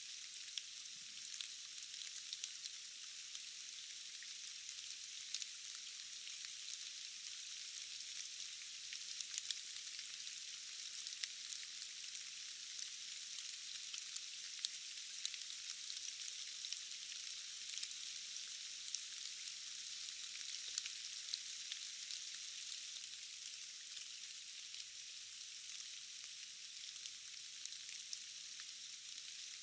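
Steady forest rain: a thin, even hiss with many scattered sharper drop ticks and no low rumble.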